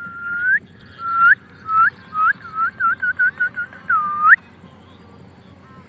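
A run of about a dozen clear whistled notes, each held on one pitch and then flicking sharply upward at its end. The notes come quicker and shorter in the middle, and the run ends on a longer note about four and a half seconds in.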